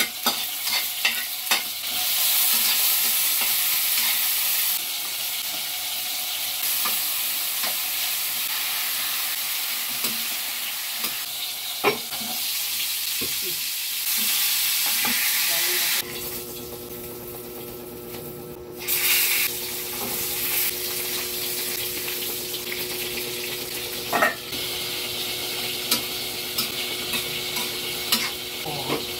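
Fish frying in oil in a pan and vegetables stir-fried in a wok, sizzling steadily, with a metal ladle and fork clicking and scraping against the pans. A steady low hum comes in about halfway through.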